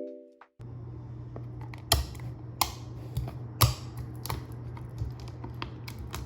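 A last chime note fades out at the start. Then a run of irregular light clicks and taps begins, a few sharper than the rest, over a steady low hum of room tone.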